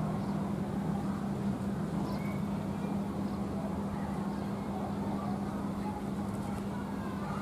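Diesel-hauled passenger train running slowly, its engine a steady low hum under a rumble, with a few faint bird chirps.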